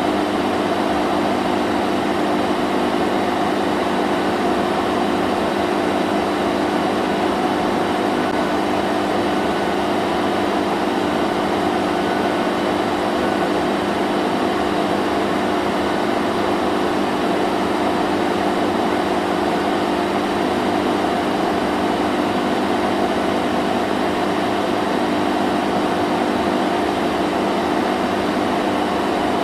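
Vacuum cleaner running steadily: an unchanging motor hum with several steady tones over the whoosh of rushing air.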